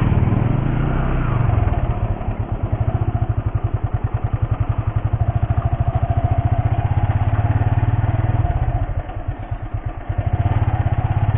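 Motorcycle engine running at low road speed while riding, its firing pulses steady and even. It eases off about nine seconds in and picks up again near the end.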